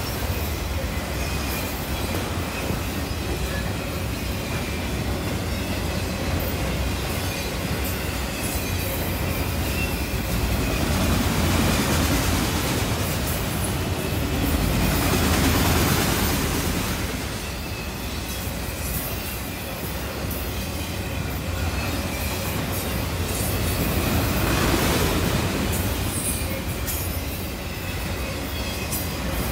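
Freight train of autorack cars rolling past close by: the steady noise of steel wheels on the rails, swelling and easing as the cars go by.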